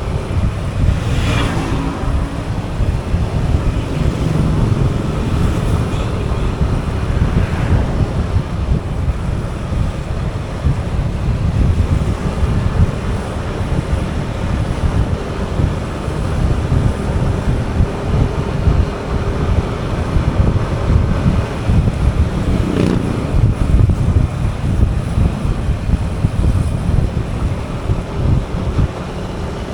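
Heavy wind buffeting on the microphone of a moving motorbike, with road and traffic noise underneath. A passing vehicle's sound falls in pitch about a second in, again near 8 seconds, and another vehicle passes around 23 seconds.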